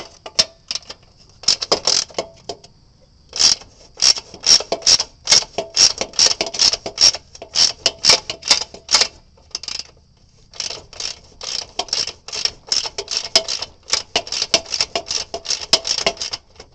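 Socket ratchet wrench clicking in quick runs of sharp clicks, broken by brief pauses, as it is worked back and forth on a mower engine bolt.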